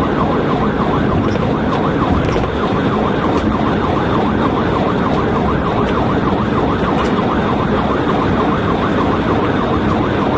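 Police cruiser siren in a rapid yelp, its pitch sweeping up and down several times a second without a break, over the steady rumble of the car and road at highway speed.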